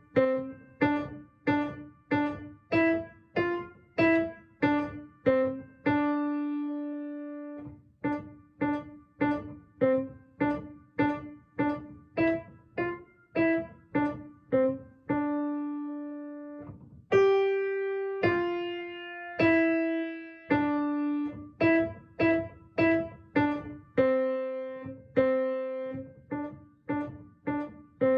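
Piano playing a simple lesson-book melody at a steady pace, about two notes a second in the middle register, with a few longer held notes.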